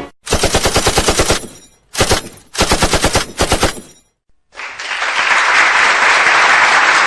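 Machine-gun sound effect: three bursts of rapid automatic fire, a long one and two shorter ones, ending a little under four seconds in. About half a second later a steady rushing noise, like a crowd or applause, rises and holds.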